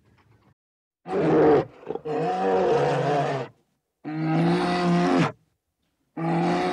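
An animal making a series of four long calls at a steady pitch, separated by short pauses.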